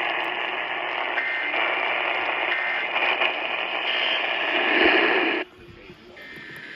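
Radio static: a steady band of hiss, as from a weak or untuned station, that cuts off sharply about five seconds in, leaving a fainter hiss.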